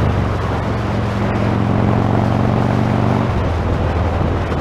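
Motorcycle engine running under way, with wind rushing over the Sena Prism Tube's external microphone. The engine note changes about three seconds in.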